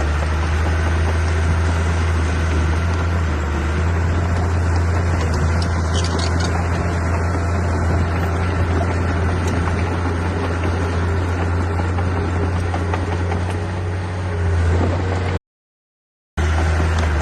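Heavy diesel machinery engine running steadily with a deep, even hum. The sound cuts out abruptly for about a second near the end, then resumes.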